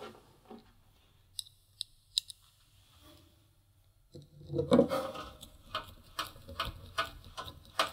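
Handling noises from repair work: a few light clicks, a short clatter a little past halfway, then a run of quick light clicks.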